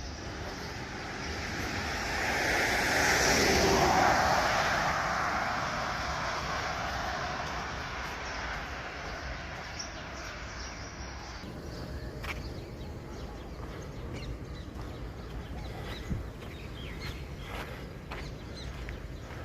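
A vehicle passing by, its noise swelling over a few seconds and then fading away. After it has gone, faint footsteps on a path.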